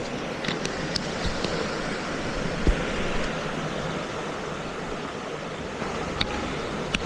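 Steady rush of water from a small waterfall and its stream, with a few light clicks over it.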